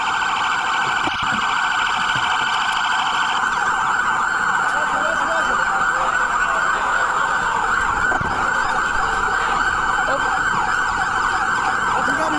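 Police siren sounding continuously during a pursuit, heard from inside the cruiser. For the first three seconds or so a faster pulsing higher tone runs over it, then stops.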